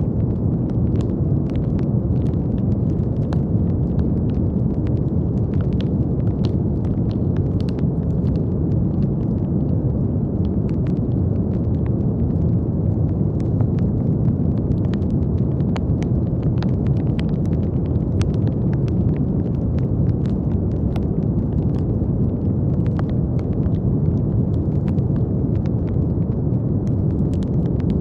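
Steady brown noise: a deep, even rumbling hiss with most of its energy low down, with faint scattered crackles on top.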